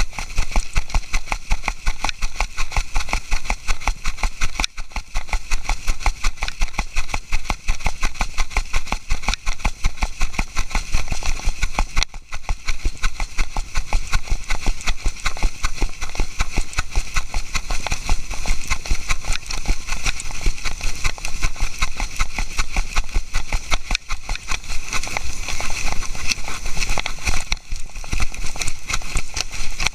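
Rapid, rhythmic knocking and rubbing of an action camera strapped to a walking pet, jolted with each step, over a steady high-pitched buzz.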